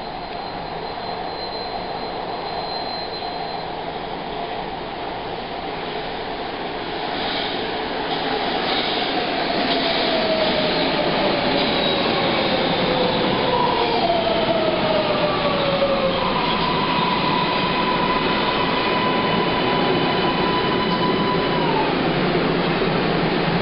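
MARTA rapid-transit train running, heard from inside the car: a steady rail rumble, louder from about eight seconds in, with whining tones that slide down in pitch and a high whine held for several seconds near the end.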